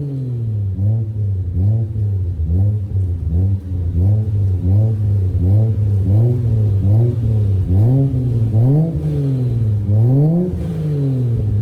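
Swapped 1JZ twin-turbo inline-six in a BMW E46, running through an HKS muffler, revved in quick repeated blips, about one rise and fall of pitch every 0.7 seconds, settling to a steady note near the end.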